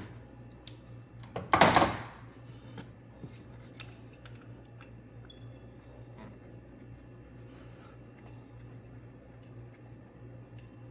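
Metal tools and parts clinking while an 8mm socket is worked on a coil-pack bolt. There is one loud clatter about a second and a half in, then faint scattered ticks.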